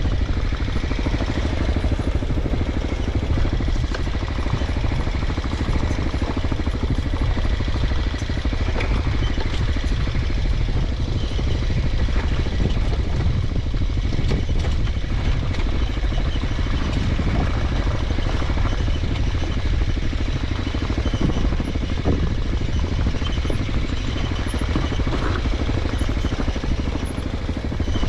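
Mondial Extreme Max 200i motorcycle running steadily while ridden on a rough dirt mountain track, with a deep, constant wind rumble on the microphone.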